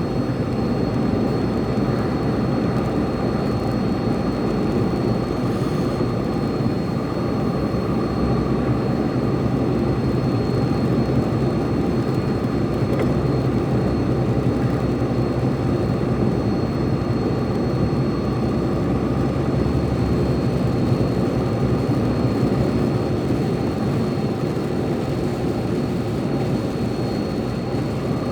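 A lorry's engine and road noise make a steady, even drone with no changes in speed, and a thin high whine sits above it.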